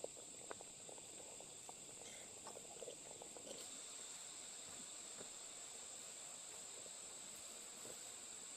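Insects droning steadily at a high pitch, with a few faint rustles and taps in the first few seconds.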